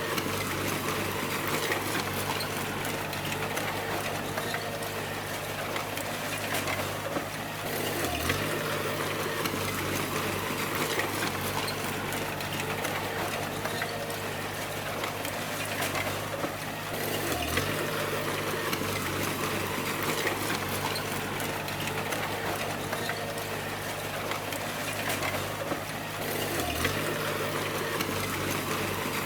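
Crawler bulldozer's diesel engine running steadily under load, with clattering tracks and clanking. The engine note dips briefly and recovers three times, about nine seconds apart.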